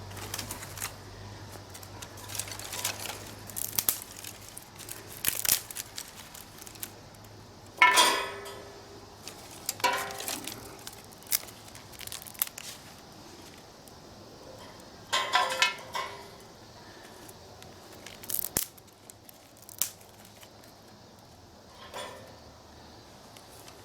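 Firewood burning in a fire pit made from an old cooking pot, crackling irregularly. A few louder ringing knocks come about eight seconds in and around fifteen seconds in.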